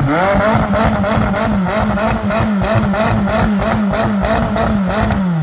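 A McLaren 570-series twin-turbo V8 revved from idle and held high, its pitch dipping and recovering about three times a second, then dropping back toward idle near the end.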